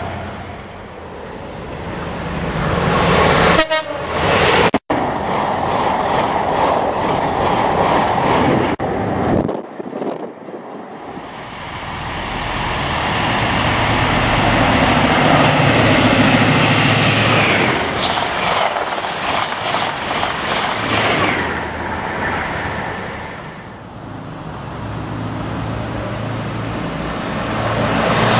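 Diesel trains passing through a station. The noise of a receding HST's class 43 power car dies away, then a long swell of rail and engine noise builds and fades as another train runs through, and near the end a class 165/166 Turbo diesel unit approaches. A train horn sounds.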